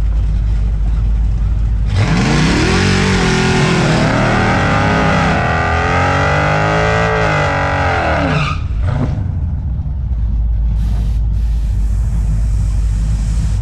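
A car engine revs hard for about six seconds, starting about two seconds in, its pitch climbing and falling several times. A steady low engine rumble runs underneath, before and after.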